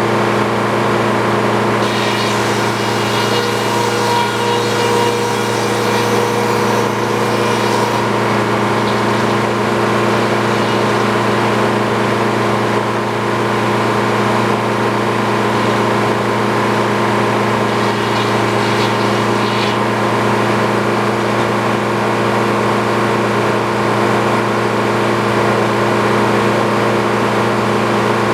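Sawmill's engine running at a steady speed. Brief higher-pitched rasping rises over it between about two and eight seconds in, and again around nineteen seconds.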